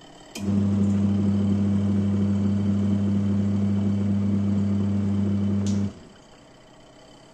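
Small 3.5 kg Bronde washing machine's motor running with a steady mains hum for about five and a half seconds. It starts with a click shortly after the start, then stops with a click near the end, in the on-off pattern of a wash cycle.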